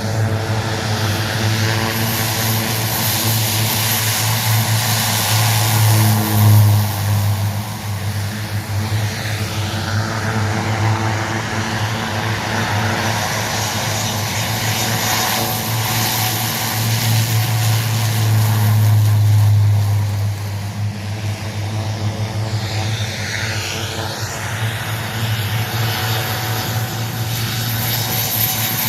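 Propeller aircraft engines running steadily: a loud, constant low drone over a rushing hiss, swelling and easing a little in loudness.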